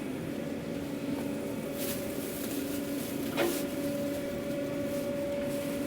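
Steady electrical-mechanical hum of food truck equipment, holding two constant tones, with two short sharp clicks or knocks about two and three and a half seconds in.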